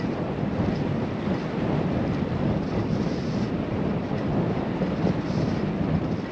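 Steady wind noise on a GoPro action camera's microphone while cycling, a dense low rush with some hiss above it and no distinct events.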